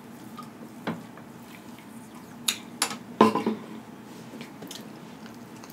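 Close-miked mouth sounds of someone chewing pizza: several short, wet smacks and clicks, the loudest about three seconds in.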